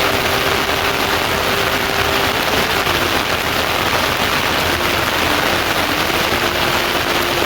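Heavy rain falling steadily, with a faint steady hum under it that dips in pitch briefly midway.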